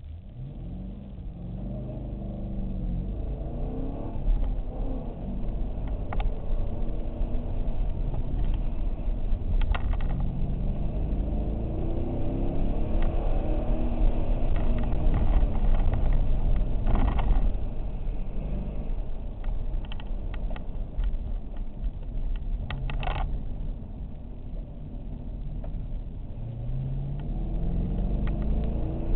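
Ford Mustang Bullitt's V8, heard from inside the cabin, repeatedly climbing in pitch under hard acceleration and dropping back as the driver lifts off on an autocross course. The engine note is loudest a little past halfway, and a few sharp knocks come along the way.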